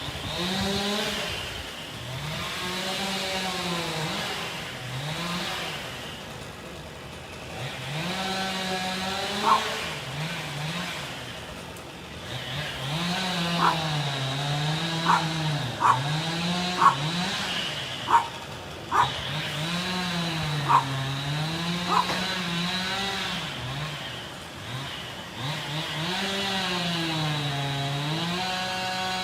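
Chainsaw cutting wood, its engine note sagging under load and climbing again over and over. A run of sharp, short knocks comes through the middle stretch.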